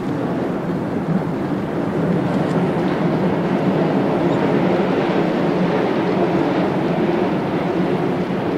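Keihan electric train running past, a steady rumble of wheels on rail that grows a little louder through the middle and eases near the end.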